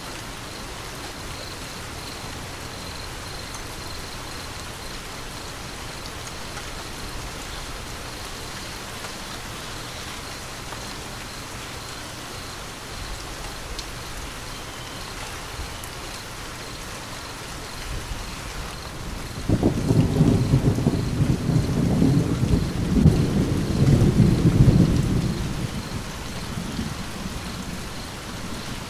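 Steady rain hiss, with a thunder clap that breaks in suddenly about two-thirds of the way through, rumbles loudly for several seconds and dies away near the end.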